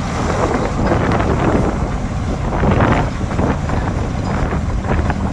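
Tractor engine running steadily, with a rushing noise over it.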